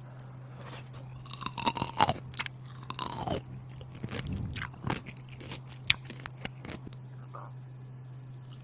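A person chewing crunchy food close to the microphone, with irregular crisp crunches and mouth clicks over a steady low hum.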